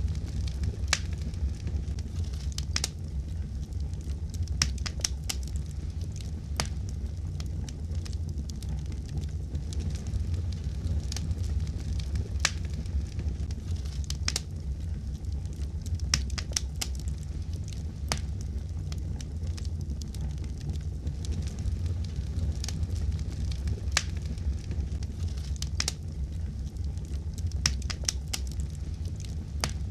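Fireplace fire crackling: irregular sharp pops and snaps, a few every couple of seconds, over a steady low rumble of flame.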